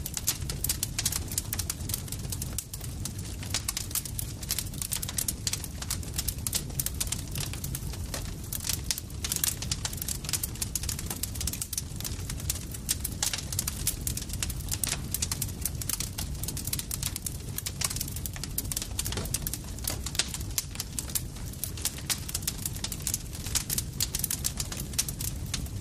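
Campfire crackling: dense, irregular pops and snaps from burning wood over a steady low rumble of the flames.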